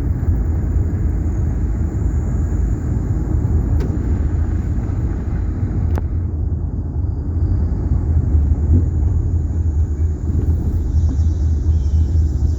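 Steady low road and engine rumble heard inside a car's cabin while driving slowly, with two faint clicks about four and six seconds in.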